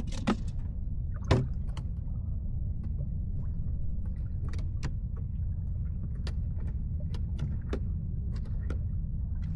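An engine running with a steady low drone, with scattered sharp knocks and clicks over it; the two loudest come right at the start and about a second in.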